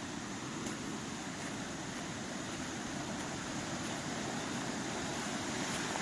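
Steady rush of a mountain stream, growing gradually louder.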